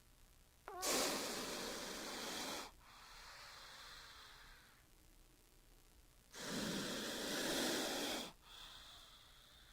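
King cobra hissing: two long, forceful hisses of about two seconds each, the second some five seconds after the first, each trailing off into a fainter hiss.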